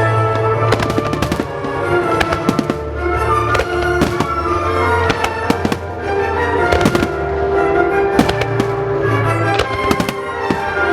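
Fireworks shells bursting in many sharp bangs, several a second at irregular spacing, over loud music with held notes played along with the display.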